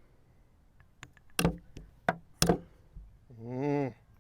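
Chess pieces set down hard and the chess clock's buttons slapped in quick blitz play: about six sharp knocks over two seconds. Near the end comes a short hummed groan from a player.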